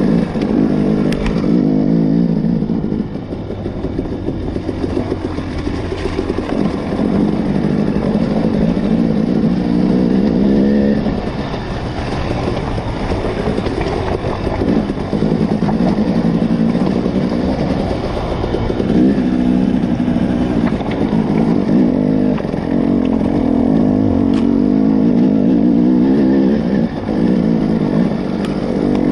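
Two-stroke TPI enduro motorcycle engine running under load while it is ridden over a rocky trail, its revs rising and falling again and again.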